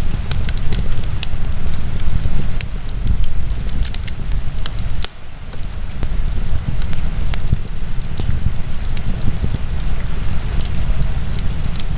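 Wood fire burning in a fireplace, crackling with many sharp pops and snaps over a steady low rumble; the sound dips briefly about five seconds in.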